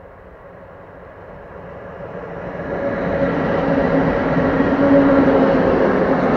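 ET41 twin-unit electric locomotive hauling a freight train of open wagons, approaching and passing close by. The sound grows steadily louder over the first three seconds, then a steady hum from the locomotive is heard as it goes by, followed by the wagons' wheels running on the rails.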